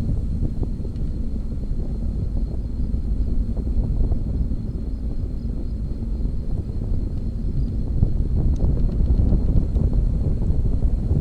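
Wind rumbling steadily on the microphone of a camera on a moving bicycle, a low noise with small irregular gusts and road noise beneath.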